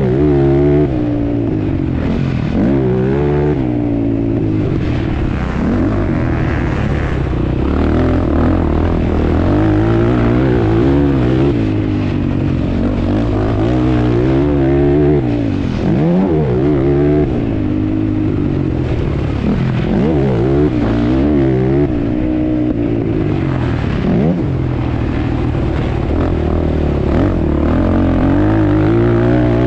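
ATV engine revving hard and easing off again and again, its pitch climbing and dropping every second or two.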